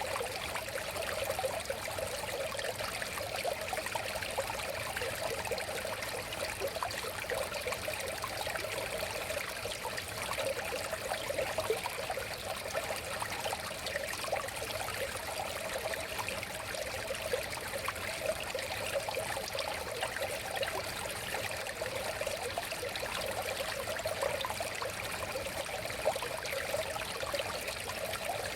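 River water flowing and babbling steadily over stones, a constant rushing with small splashes.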